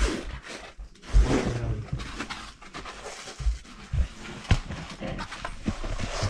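A person breathing hard, with scuffs and several sharp knocks of movement close to the GoPro's microphone.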